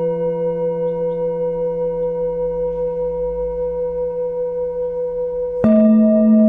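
A singing bowl rings on after a strike, its tones slowly wavering and fading. About five and a half seconds in, another bowl is struck and rings out louder, with a different low tone.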